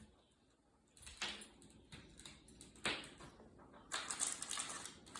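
Hand-work on the fan's wires and connectors: a few sharp clicks, then from about four seconds in a dense, rapid crackle of clicking and rustling as the wires are twisted together.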